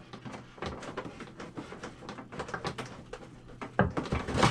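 Plastic motorcycle fairing panel rattling, creaking and clicking as it is jiggled and pushed back off its rubber mounting grommets, with a few louder knocks near the end.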